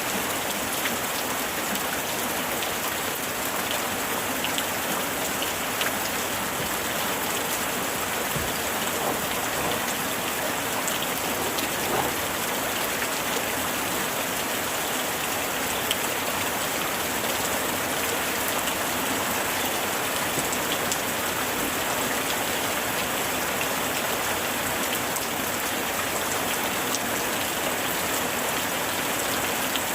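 Heavy rain falling steadily, a constant hiss dotted with the sharp ticks of individual drops hitting nearby surfaces.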